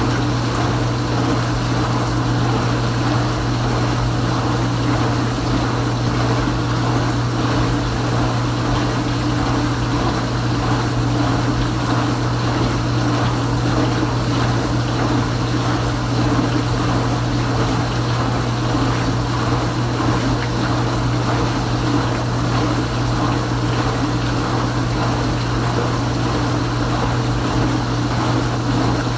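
Kenmore Ultra Wash 3 dishwasher running its wash pump, with a steady low motor hum under the even hiss and splash of water spraying around the tub.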